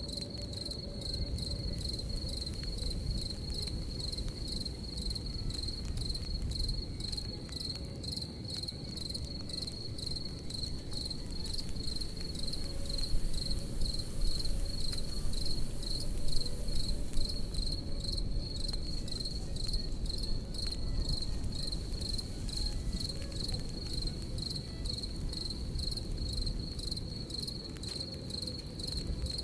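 Crickets chirping in a steady, even pulse, high-pitched, over the low rush of a crackling campfire with occasional small pops. The fire swells a little louder about halfway through.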